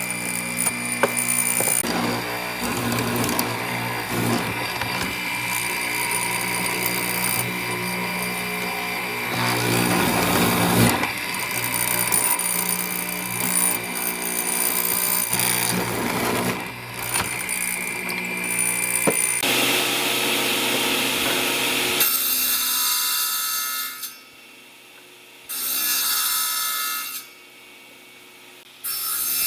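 Woodworking power tool running steadily and working wood, then stopping twice in the last few seconds with a short run in between.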